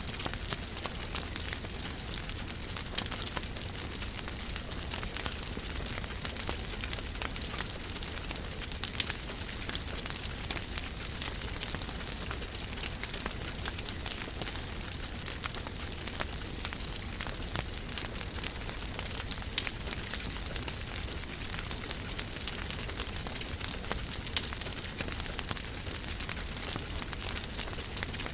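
Wood fire crackling steadily in a fireplace: a dense run of small crackles with a low hiss, and a few louder pops.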